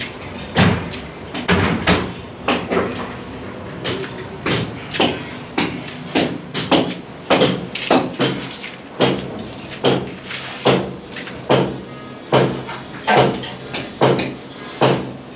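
Repeated hammer blows at a building site, irregular, about one to two strikes a second.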